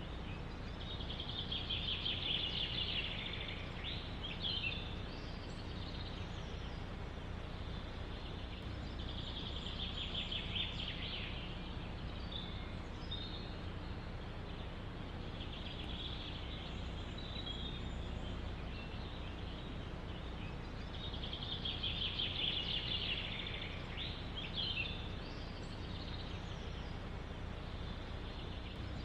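A songbird repeating a short trilled song phrase of about two seconds every six or seven seconds, over a steady low rumble of wind in the forest.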